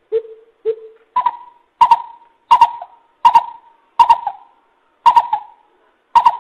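Coucal (bubut) hooting: a regular series of short hoots about every two-thirds of a second. The first two are lower, and the rest step up in pitch, each doubled.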